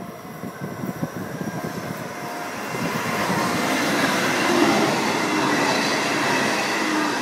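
A two-car Breisgau S-Bahn set of Regio-Shuttle RS1 diesel railcars approaches and runs past close by. The sound grows from a low rumble into a steady rush of wheels on rail, loudest about four to five seconds in, with a few whining tones in it.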